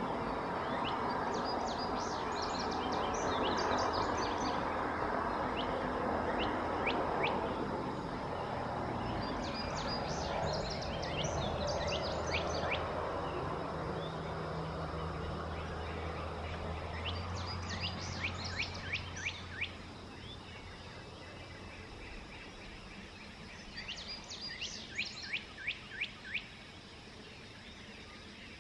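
A songbird singing a repeated phrase: a quick run of short, descending chirps lasting about three seconds, given again every seven or eight seconds. Behind it is a steady outdoor hiss with a low hum that fades away about two-thirds of the way through.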